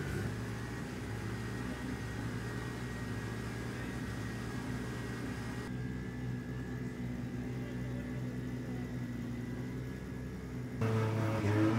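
Drift car engine idling steadily, then revving up and down loudly near the end.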